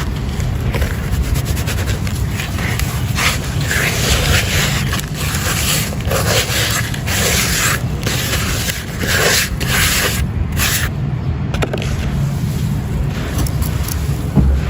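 Crumbly red stone-like texture being crushed and rubbed close to the microphone: irregular gritty crunching and scraping over a steady low rumble.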